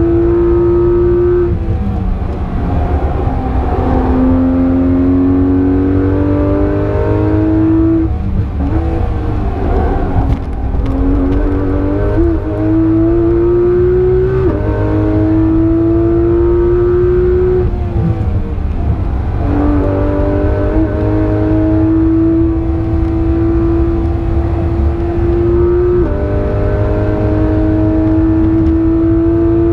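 Porsche 991.2 GT3 RS's naturally aspirated 4.0-litre flat-six pulling hard, heard from inside the cabin: the engine note climbs steadily, drops back sharply about half a dozen times, then climbs again, over a low road and wind rumble.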